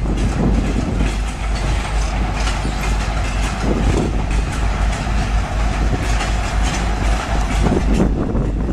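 Cars of a work train rolling past, their wheels clacking over the rail joints, with a steady ringing tone from the wheels underneath.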